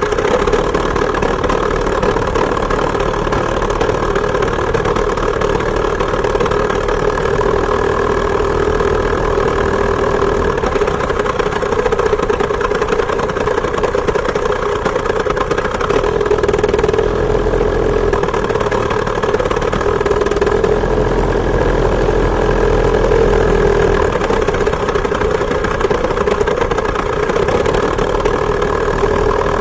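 A homemade moped's two-stroke chainsaw engine running steadily under way, heard from the handlebar, with a low rumble underneath that grows stronger for a few seconds in the second half.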